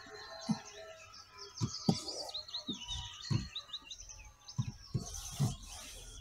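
Small songbirds chirping and trilling in quick, high phrases, busiest a couple of seconds in. A series of soft, low knocks or rustles is heard throughout.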